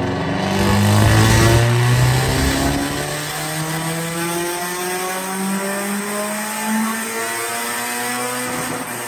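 Proton Wira's turbocharged 4G93 SOHC four-cylinder engine pulling hard under load, its pitch climbing slowly and steadily as the revs rise.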